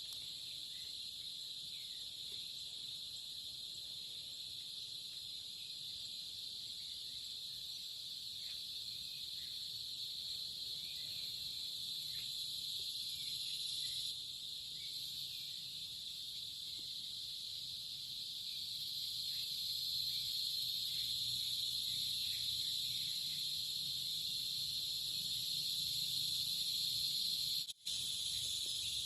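Dense, unbroken chorus of insects trilling high and steady, swelling a little louder past the middle and cutting out for a split second near the end.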